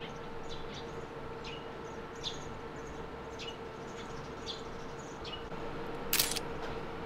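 Small birds chirping repeatedly, each chirp short and falling in pitch, over a steady hum. A brief loud hiss cuts in about six seconds in.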